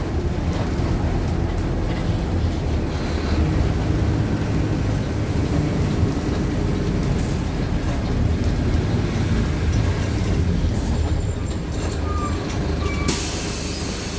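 Mercedes-Benz OF-1519 BlueTec 5 bus's diesel engine running steadily while the bus is under way. Near the end comes a loud hiss of compressed air from the air-brake system, with two fainter hisses earlier.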